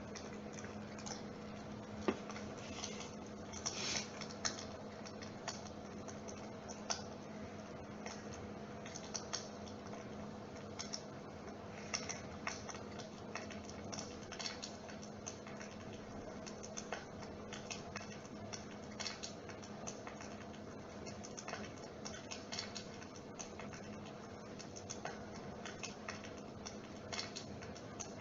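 Dimplex mist-effect electric fireplace running: a steady low hum with light, irregular clicks and ticks scattered throughout.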